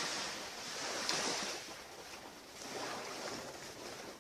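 Ocean surf washing onto a beach, the waves coming in swells, with the loudest about a second in, then fading near the end.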